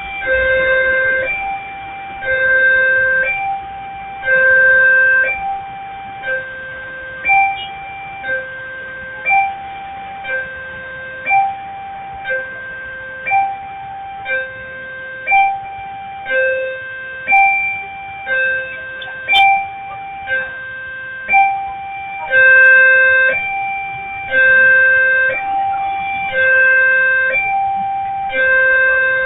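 Railway level-crossing warning alarm: an electronic two-tone chime alternating steadily between a low note and a higher note, about one note a second, heard through narrow-band CCTV audio.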